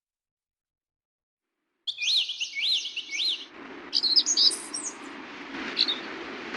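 Birds chirping in quick rising-and-falling whistled notes after about two seconds of silence, over a low steady background rumble that comes in about halfway. The sound cuts off suddenly at the end.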